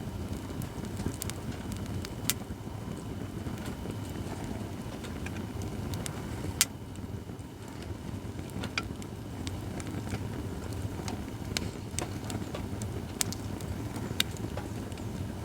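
Acacia firewood burning in a fire-pit stand: scattered sharp crackles and pops over a steady low rush, with the loudest pops about two seconds and six and a half seconds in.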